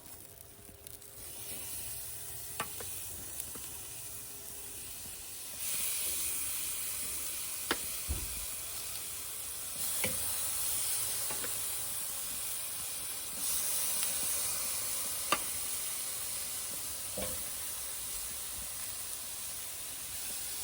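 Chicken thighs sizzling on the hot grate of a Weber kettle grill as they are laid on one after another. The sizzle grows louder in steps, about six, ten and thirteen seconds in, with several short clicks and taps against the grate.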